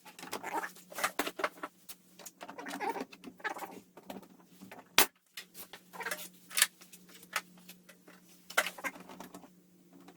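Wooden trim being handled and fitted back onto a garage door panel: irregular scraping, rustling and light knocks of wood against wood, with a sharp click about halfway through. A steady low hum runs underneath.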